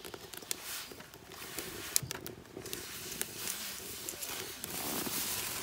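Food frying in hot oil in a pan over a wood-fired rocket stove: a sizzling hiss with sharp pops and crackles, growing louder near the end.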